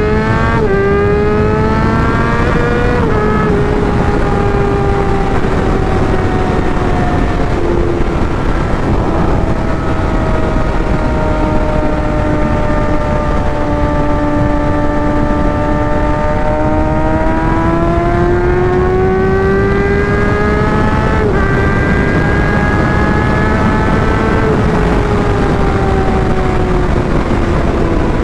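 Sport motorcycle's engine heard from the rider's helmet mic over steady wind rush. It revs up sharply through two gear changes in the first few seconds, then its pitch eases down, sinks low for a while, rises again with another shift and falls away near the end.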